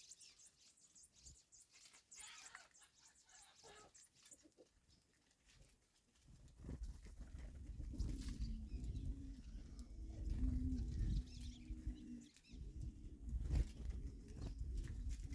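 Birds calling: faint high chirps at first, then from about halfway a low rumble and short, low-pitched held calls.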